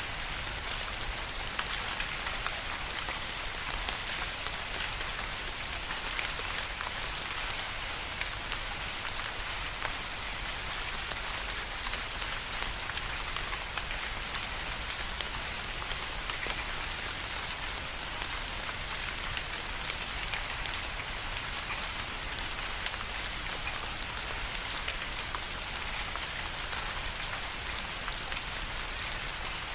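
Steady rain falling and pattering on a surface, an even hiss with many small scattered drop ticks.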